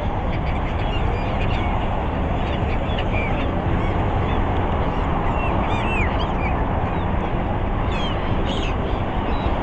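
A flock of gulls calling, many short overlapping cries that rise and fall in pitch, over a steady noisy background.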